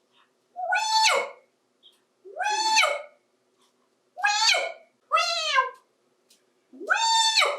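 African grey parrot giving a meow-like mimicked call five times, each call rising then falling in pitch.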